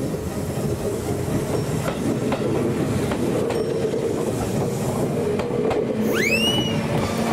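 Train running on the rails, a steady rumble with wheel clatter, and one short high squeal about six seconds in.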